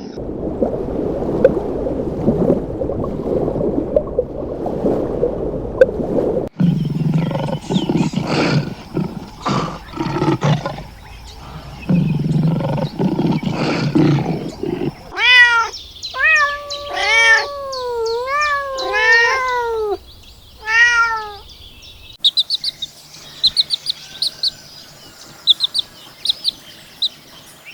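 A string of animal calls: rough, low, noisy calls for about the first half, then a cat meowing five or six times with rising-and-falling pitch, then fast high chirps near the end.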